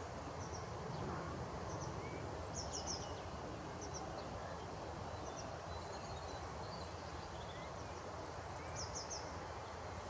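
Small birds giving short, high chirps, including two quick runs of several notes about three seconds in and again near the end, over steady outdoor background noise.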